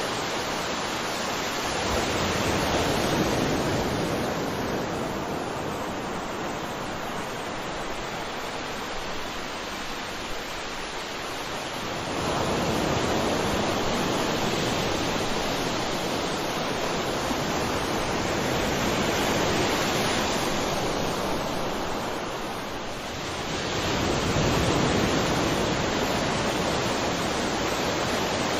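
Ocean waves washing onto the shore, a steady rush of surf that swells louder every ten seconds or so.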